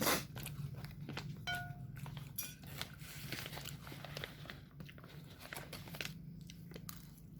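A person chewing and biting food close to the microphone, with many small crunches and clicks and a sharp click right at the start.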